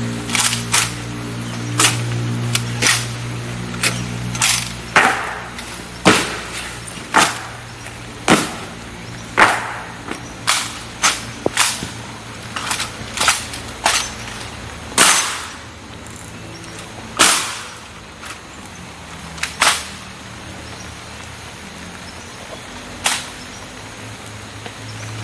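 Honor guard rifle drill: a rapid, irregular series of sharp cracks and knocks as the guards' rifles are slapped and their butts stamped down. Steady rain hiss underneath.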